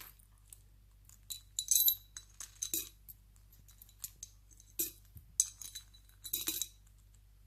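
Coins clinking and tapping against a piggy bank as a green-cheeked conure handles them and drops them in: a series of short, irregular metallic clinks, some with a brief high ring.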